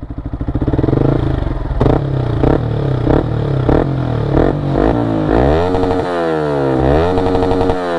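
Yamaha MT-15's 155 cc single-cylinder engine revved while standing, through a replica Akrapovic R1M full-system exhaust with its catalytic converter and dB killer in place: a string of short throttle blips, then twice the revs climb, hold high and drop back.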